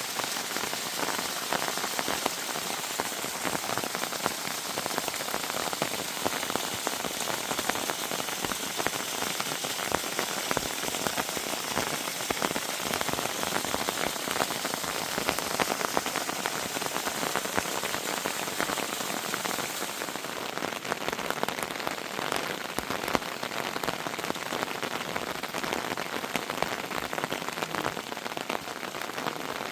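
Heavy rain falling steadily: a dense, even hiss of countless drop impacts, slightly less bright in its top end for the last third.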